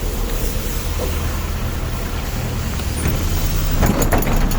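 MAZ-103 city bus heard from inside the passenger cabin: a steady low engine hum over road and cabin noise. A short cluster of knocks and rattles comes about four seconds in.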